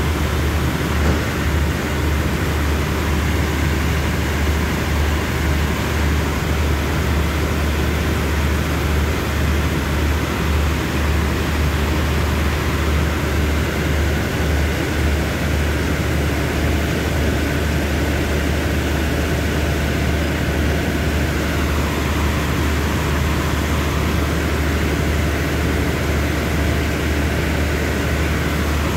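Diesel express train standing at the platform with its engines idling: a steady, loud drone and hiss with a low rumble that wavers.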